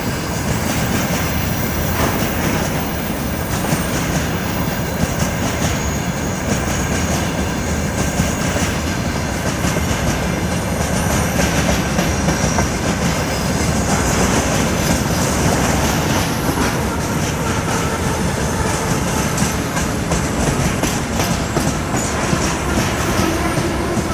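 Freight train rolling steadily past through a curve, wheels clacking over the rail joints, with faint high wheel squeal.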